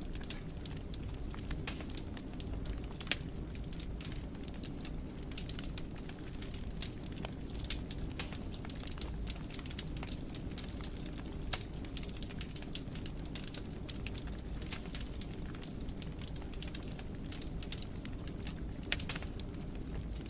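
Wood fire burning in a fireplace, crackling with many sharp irregular pops over a steady low rumble of the flames.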